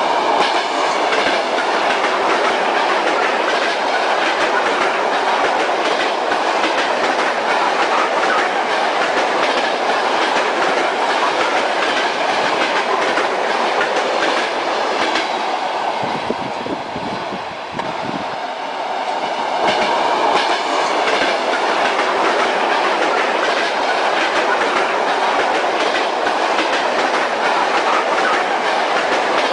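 Train running along the track: the steady rumble of a railway carriage with the clickety-clack of its wheels over the rail joints. A little past the middle the sound briefly dips and turns deeper, then comes back.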